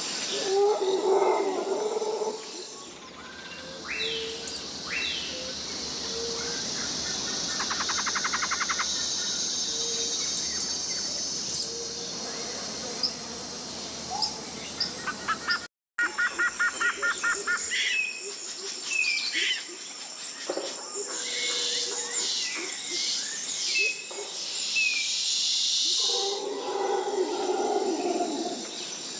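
Tropical rainforest ambience: a high, steady hum of insects with many short bird chirps and calls, and a fast buzzing trill twice. Low, rough animal calls open it and return near the end. The recordings are spliced with abrupt cuts, with a brief dropout about halfway through.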